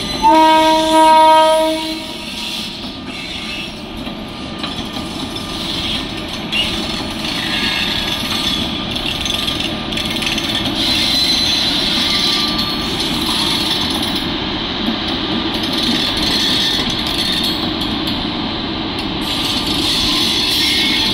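An electric locomotive's horn sounds once, a single held note of about two seconds at the start, the loudest sound here. Then comes the steady running noise of the express train's locomotive and coaches passing on the rails.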